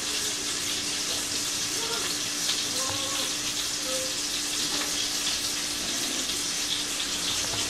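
Two ground-beef patties frying in garlic butter and vegetable oil in a nonstick pan: a steady sizzle, with a faint steady hum underneath.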